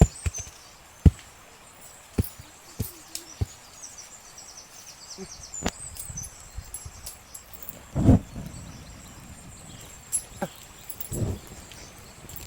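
Scattered sharp clicks and knocks, with two heavier thumps near the end, over outdoor background noise and a brief faint high chirping about five seconds in.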